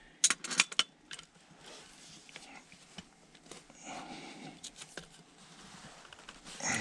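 Metal tools clinking and scraping against a furnace gas valve and its pipe fittings as a stuck fitting is worked loose. There are several sharp clicks in the first second, then quieter scraping and handling.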